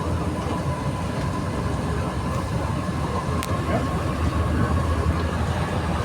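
Santiago Metro NS-93 rubber-tyred train running between stations, heard from inside the car: a steady running rumble with a thin steady whine above it. A single short, sharp tick comes about three and a half seconds in.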